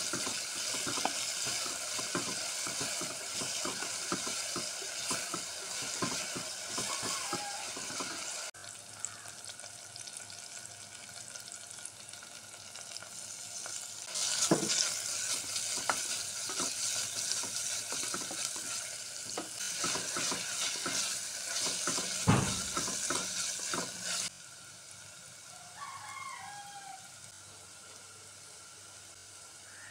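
Sliced onions and green chillies frying in oil in a steel pot, sizzling as a wooden spatula stirs them and scrapes and knocks against the metal. The sizzle eases after about eight seconds, comes back louder about halfway, with a sharp knock a little later, and falls away suddenly about four-fifths of the way through.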